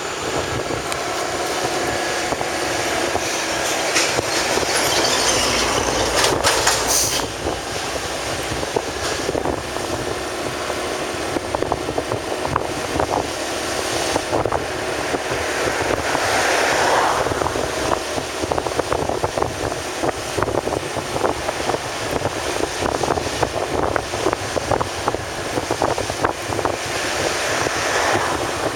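Steady travelling noise of a vehicle on the move, heard from on board: road and wind noise with a constant clatter of small rattles and knocks.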